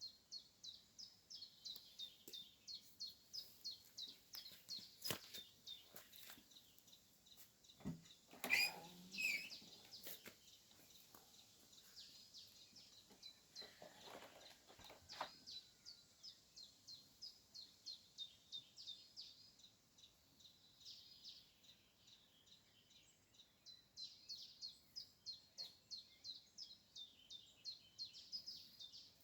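A bird singing faintly: a long series of short, high notes repeated about three times a second, with a short pause around two-thirds of the way through. About a third of the way in, a louder sudden sound breaks in for a second or two.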